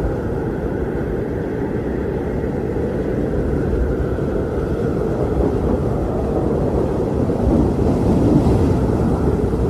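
Strong wind blowing in a steady low rush, swelling a little near the end.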